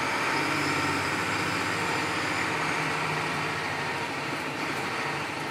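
Diesel engine of a semi tractor running bobtail (no trailer) with a steady hum, easing off slightly near the end.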